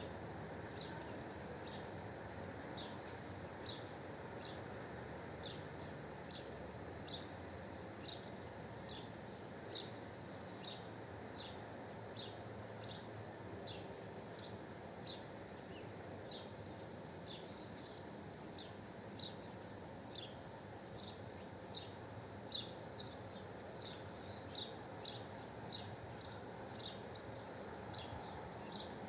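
A small bird chirping over and over: short, high chirps about one or two a second, over a steady background hiss.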